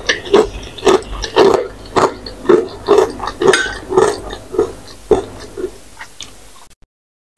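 Close-miked wet chewing of a mouthful of spicy instant ramen noodles, a smacking chew about twice a second, fading and then stopping abruptly near the end.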